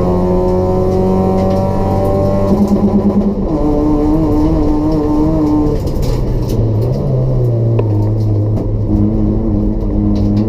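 Toyota Etios race car's 1.5-litre petrol engine with free-flow exhaust, running hard with its pitch climbing steadily. About two and a half seconds in the pitch drops sharply, holds, then falls lower again around six seconds before picking up near the end.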